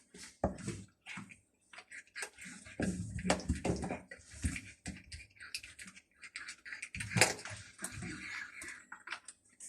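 Hungry stray cats eating: irregular chewing and clicking, with the loudest burst about seven seconds in.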